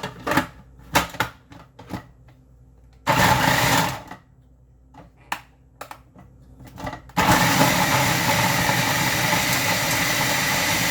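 Electric food processor grinding raw chicken breast: after a few clicks and knocks, the motor runs in one short pulse of about a second, then starts again about seven seconds in and runs steadily.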